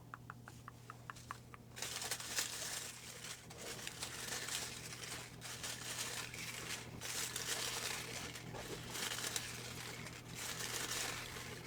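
Paper slips rustling and crinkling as they are handled and unfolded, close to the microphone. The crinkling comes in uneven handfuls, after a quick run of soft clicks, about six a second, in the first two seconds.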